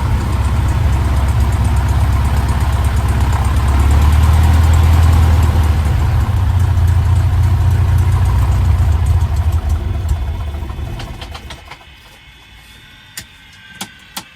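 Cessna 150's four-cylinder Continental O-200 engine running with the propeller turning, a little louder about four seconds in, then dying away over about two seconds, ten seconds in. A few sharp clicks near the end.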